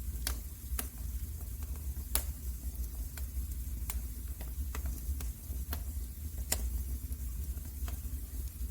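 Wood fire crackling in a fireplace: sharp, irregular pops and snaps, a few louder than the rest, over a steady low rumble.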